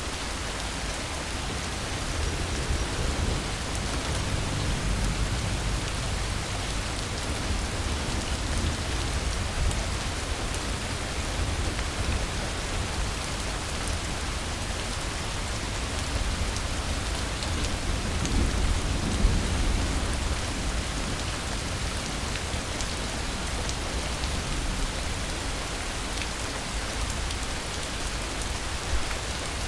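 Steady rain falling, with low rumbles of thunder swelling twice, about five and nineteen seconds in.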